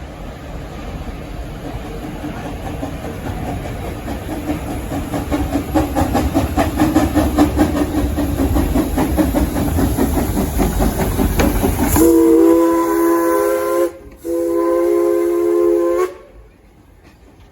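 Passenger train running, its wheels clacking rapidly over the rail joints under a rumble that grows louder. About twelve seconds in, the locomotive horn sounds a chord of several steady notes in two blasts, a long one and then a shorter one after a brief gap.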